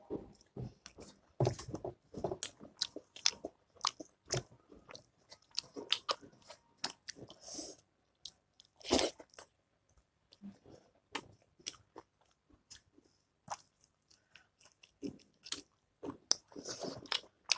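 Close-miked mukbang eating of pork achar with rice: wet chewing and biting, with sharp mouth clicks and smacks at irregular intervals and a few short pauses.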